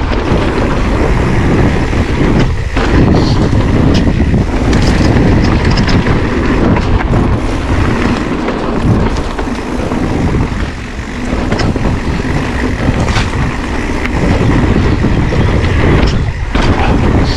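Wind buffeting the microphone and tyre noise from an electric mountain bike being ridden over a trail, with scattered knocks and rattles from the bike.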